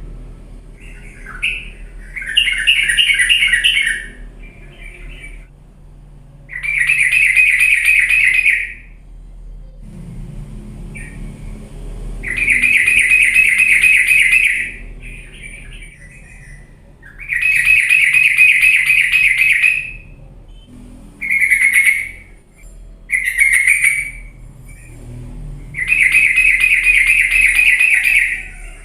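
Yellow-vented bulbul (trucuk) singing in full, aggressive song: about seven loud, rapid bubbling, chattering phrases, each lasting one to two seconds, repeated every few seconds. This is the kind of song used to provoke a lazy bird into answering.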